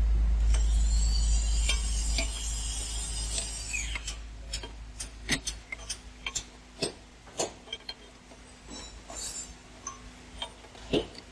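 A low rumble with a high whine that fades out over the first four seconds, then a string of sharp, irregular metallic clicks and knocks from hand tools and parts being worked on the truck's rear differential.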